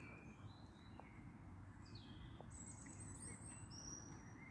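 Near silence: faint background noise with a few thin, high chirps, like distant birds.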